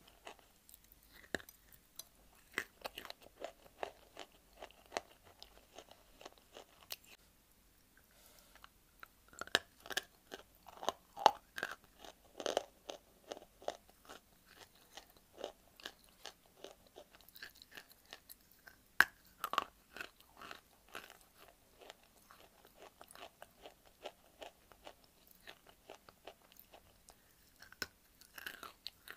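Close-miked crunching and chewing of dry white clay bitten off in chunks: a dense run of sharp, crackly crunches, with a brief lull about eight seconds in.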